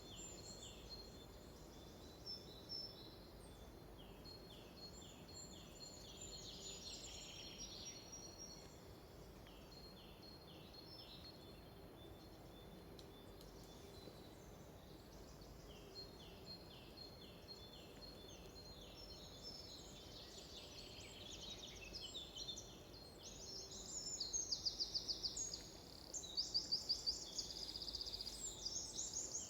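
Wild birds singing in a forest, with series of short, quickly repeated high notes from several singers. A louder, fast trilling song comes in near the end.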